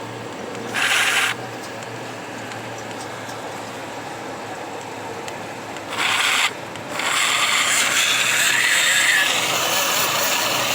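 Portable battery mini blender (juicer cup) blending whey protein and sliced banana. There are two brief louder surges, about a second in and about six seconds in, and then it runs steadily and louder from about two-thirds of the way through.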